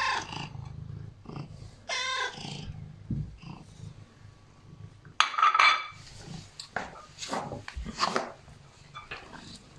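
Domestic cat meowing twice in the first couple of seconds, then a louder, strained call about five seconds in, followed by irregular chewing and smacking while it eats a piece of sausage.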